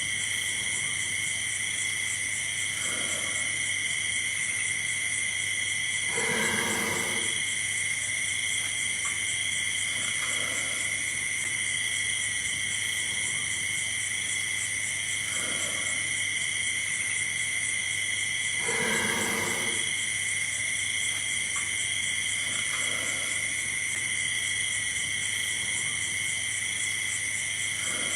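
Steady, high insect chorus in a looped nature ambience, with a short lower animal call every few seconds; the two strongest calls come about 6 and 19 seconds in.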